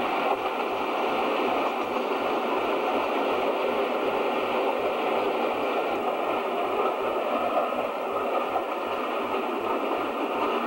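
Diesel locomotive and its train of vans passing close by, a steady rail rumble and engine noise, heard through the hiss of old video-tape sound.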